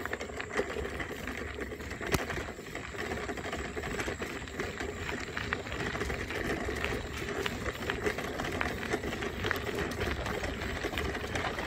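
Bicycle being ridden along a trail: steady tyre and frame rattle with a constant low rumble and many small clicks and knocks.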